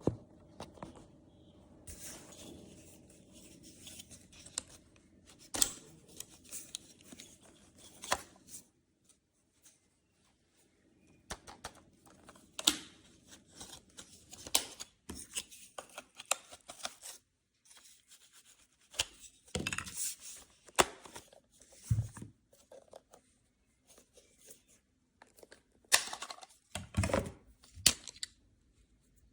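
Irregular handling noises: scattered clicks, knocks and short rustling scrapes, with a few quiet pauses.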